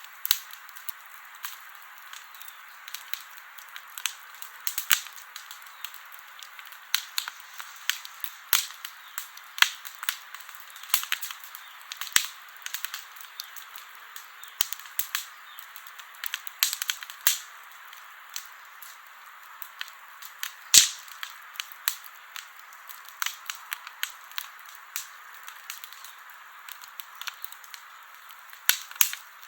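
Campfire crackling: irregular sharp pops and snaps over a soft steady hiss, with the loudest pop about two-thirds of the way through.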